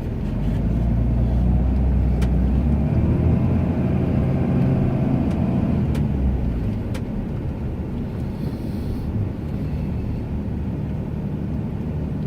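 Ram 2500 pickup's engine running while plowing snow, a strong low drone that swells in pitch and falls back about midway, with a few faint clicks.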